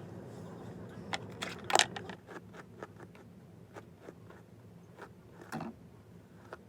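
Irregular small clicks and scrapes from hands handling hair and hair accessories, loudest about two seconds in, with another near the end.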